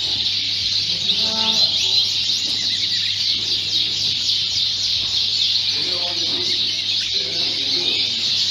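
Many Fife canaries chirping and singing at once in a dense, continuous high-pitched chorus, with people talking in the background.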